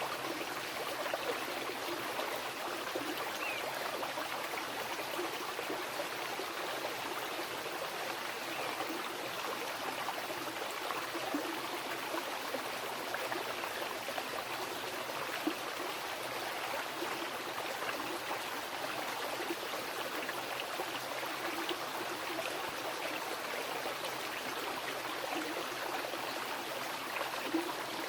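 Mountain river running over rocks: a steady, even rush of flowing water with small splashes and gurgles throughout.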